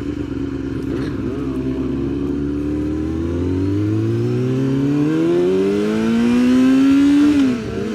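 Sportbike engine under acceleration, its note holding steady and then climbing smoothly through the revs for several seconds. Near the end the pitch drops sharply and picks up again lower, as at an upshift, over a constant low rumble of wind and road noise.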